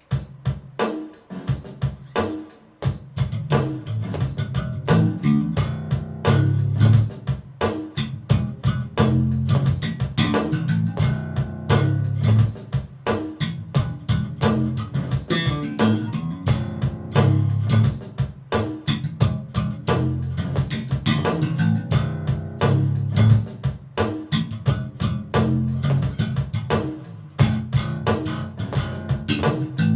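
Mike Lull MV5 five-string electric bass, 35-inch scale with a .125 gauge low B string, played continuously: deep low notes with frequent sharp, clicky note attacks.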